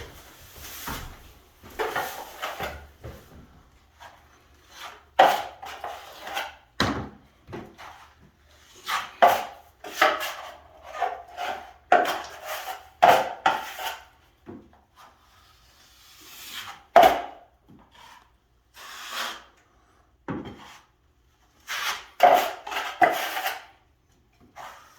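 Metal drywall knife scraping and spreading joint compound, in short irregular strokes with pauses between them.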